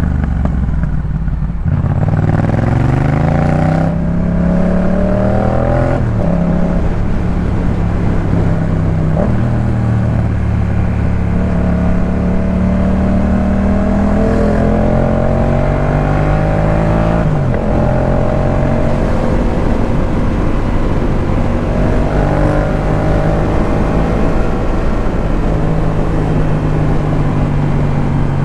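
Yamaha MT-07's 689 cc parallel-twin engine breathing through a Jeskap K4 full aftermarket exhaust, pulling through the gears: the engine note climbs, drops sharply at each upshift several times, then holds and eases at a steadier speed through the second half.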